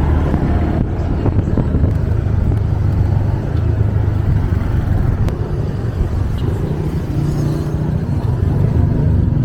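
A motor vehicle's engine running steadily, with a low hum and road noise.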